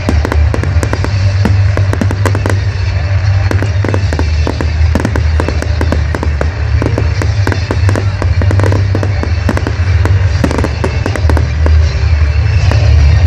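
Fireworks display: a dense run of crackles and bangs from exploding shells, many each second, over loud music with heavy bass.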